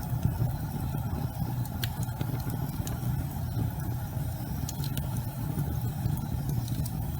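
Wood fire burning in a fireplace: a steady low rumble of flames with a few sharp crackling pops.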